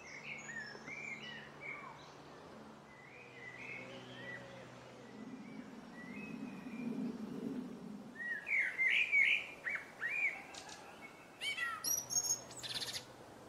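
Woodland birdsong: several small birds chirping and singing in short rising and falling phrases, busiest and loudest in the last few seconds. A faint low hum sits under the calls about halfway through.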